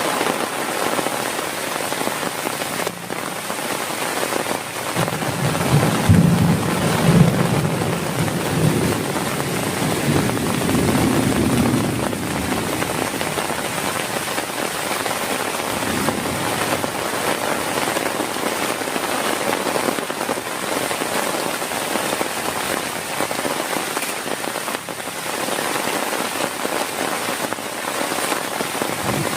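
Heavy rain falling steadily, with a low roll of thunder rumbling from about five seconds in, loudest near the start of the roll and fading out by about twelve seconds.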